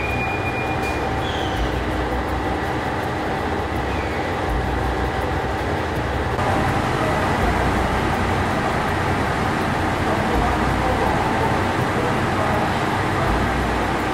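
Train running along the track with a steady rumble of wheels on rail, a little louder from about six seconds in.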